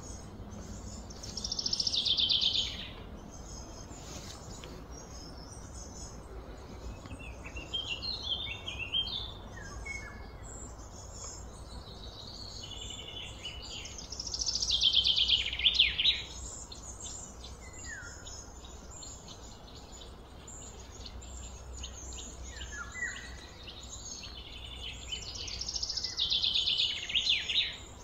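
A songbird singing: a loud, rapid, falling trill repeated three times, roughly twelve seconds apart, with shorter chirps and a few quick downslurred notes in between, over a steady low background hum.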